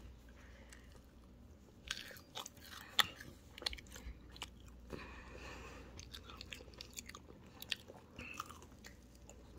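Close-up chewing and crunching of a fried chicken nugget: a run of crisp crunches and mouth clicks that starts about two seconds in, loudest about three seconds in.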